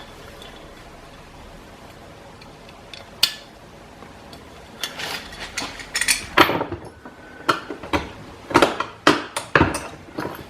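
Small steel hardware clinking and knocking: washers, a nut and a bolt on a trailer jack's crank handle being handled and fitted together. A single click comes about three seconds in, then a run of irregular sharp metallic taps from about five seconds on.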